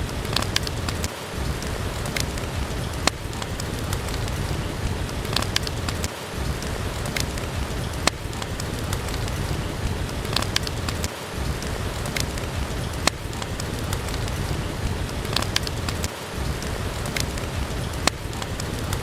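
Steady rain, heavy in the low end, with scattered sharp pops and crackles from a wood fire in a fireplace. The low rumble briefly drops out about every five seconds.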